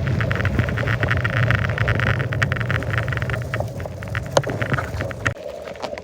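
Riding noise from a bike on the move: a steady rumble with quick rattling clicks, the rumble cutting out about five seconds in.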